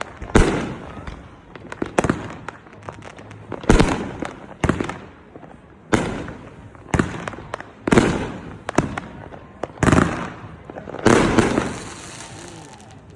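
Fireworks going off: about ten loud bangs, roughly one every second or so, each trailing off in a rolling rumble.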